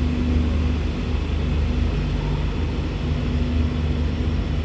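Steady low rumble and hum of an electric-hauled express train moving out along the platform.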